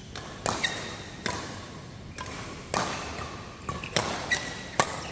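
Badminton rally: rackets hitting the shuttlecock in a string of sharp hits, irregularly spaced about half a second to a second apart.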